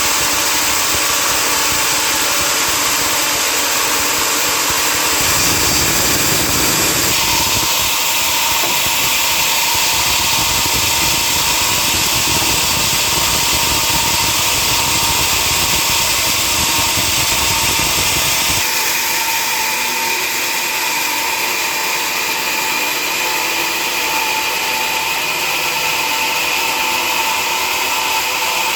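Sawmill machinery running steadily with a constant whine; a deeper rumble joins about five seconds in and drops away about eighteen seconds in.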